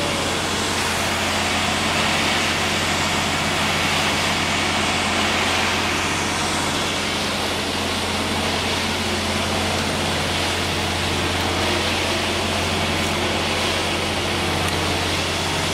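Concrete pump truck's diesel engine running steadily, with no change in speed.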